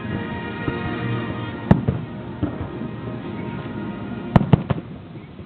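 Fireworks going off over music: one sharp bang about a second and a half in, then a quick string of three bangs a few seconds later.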